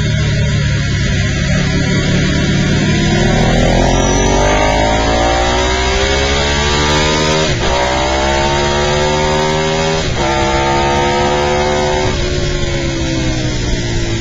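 Onboard sound of a Ducati superbike's L-twin engine under hard acceleration, its pitch climbing through two upshifts and then falling near the end as the throttle closes, with steady wind rush over the bike.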